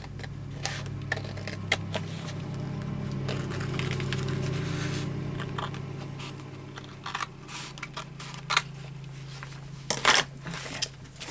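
Scissors snipping through paper, with small clicks and rustles of the page, the loudest snips near the end, over a steady low hum that swells about four seconds in.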